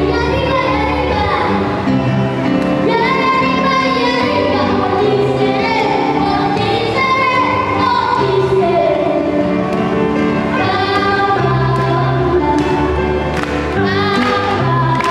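Children's choir singing a Christmas carol, with held notes over a low sustained accompaniment.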